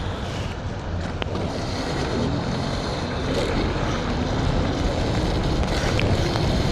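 Wind buffeting the microphone of a moving electric scooter, a steady heavy rush that grows slowly louder, mixed with tyre noise on a wet road.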